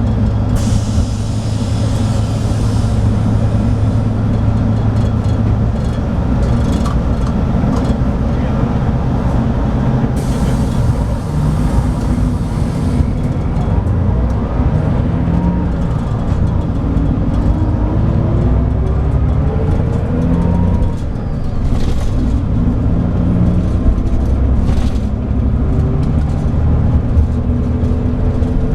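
Scania DSC9 diesel engine of a 2007 Scania K340IB coach running under way, its pitch rising and falling through the gears. Two hissing bursts of air come about a second in and again around ten seconds in.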